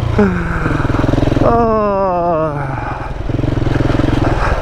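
KTM 690 Enduro's single-cylinder engine running under way on a rough dirt road. Its pitch drops briefly near the start and again for over a second around the middle, as the throttle closes.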